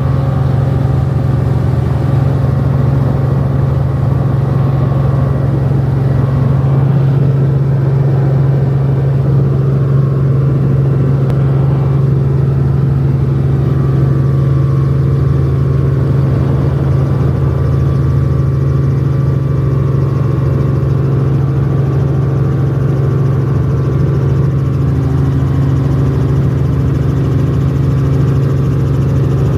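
Helicopter in flight, heard as a loud, steady engine and rotor drone with a strong low hum that does not change.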